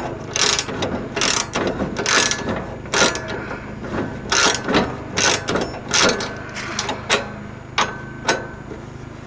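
Socket ratchet clicking in short, irregular strokes, roughly one a second, as a nut is tightened onto a bolt.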